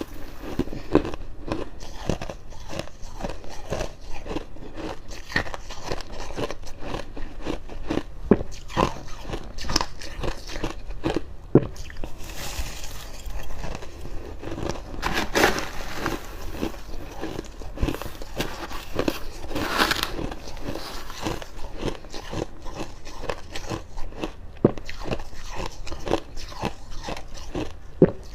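Close-miked chewing of freezer frost: a dense run of dry crackly crunches, with a couple of bigger bites in the middle.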